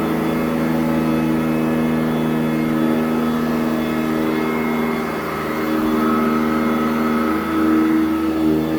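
Sanitaire SC899 commercial upright vacuum running steadily on carpet, its motor hum shifting slightly in pitch every few seconds as it is pushed back and forth.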